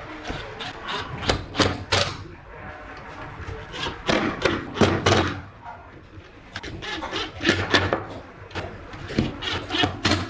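Irregular knocks and clatter of workshop parts and tools being handled and tapped together, in clusters with short lulls between.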